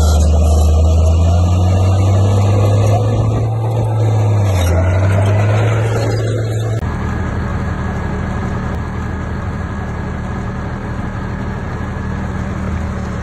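Heavy diesel engine of construction machinery running, its pitch shifting up and down for the first few seconds. About seven seconds in the sound changes abruptly to a steadier, somewhat quieter engine.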